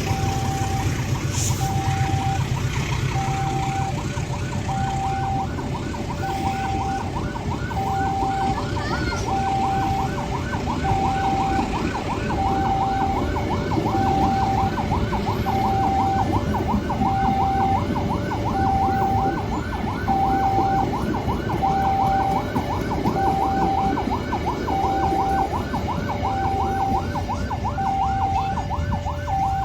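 Railway level crossing warning alarm sounding a repeating high-low two-tone signal about every second and a half, over a steady low rumble of train noise.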